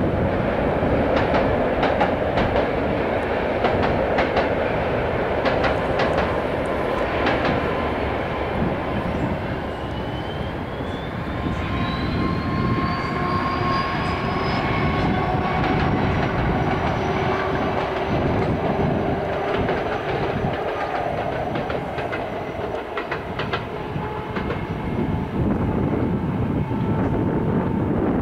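Locomotive-hauled passenger train on a non-electrified line running past, its wheels clicking and clattering over the rails, with a high whine that rises in pitch through the middle.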